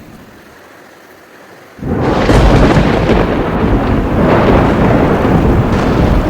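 Thunder: a sudden loud crack about two seconds in that rolls on as a long, heavy rumble, swelling again a couple of seconds later.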